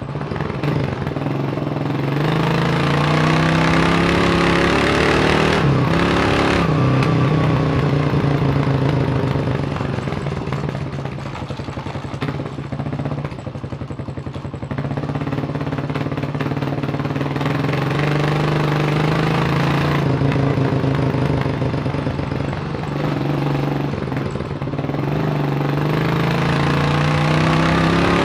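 1987 Kawasaki KLR600's single-cylinder four-stroke engine under way, revving up through the gears in the first few seconds, easing off about halfway through, then pulling up again near the end.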